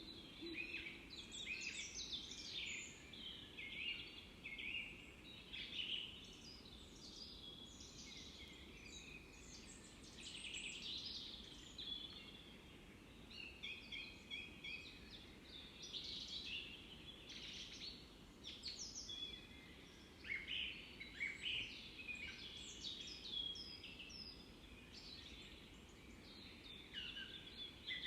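Several small birds singing and chirping at once, with short high calls overlapping throughout, over faint steady background noise.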